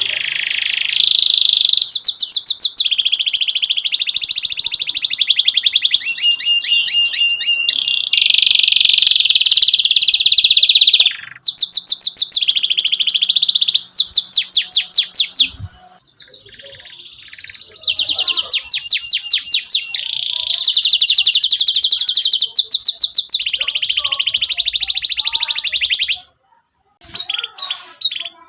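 Domestic canary singing loud, fast trills and rolls, one rapid run of repeated notes after another, with a short break about sixteen seconds in and another near the end.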